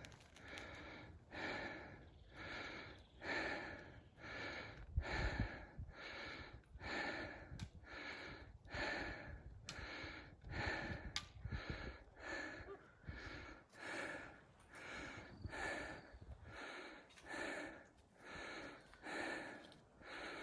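Heavy, rhythmic breathing of a hiker climbing uphill, in and out about once a second, with faint footfalls underneath.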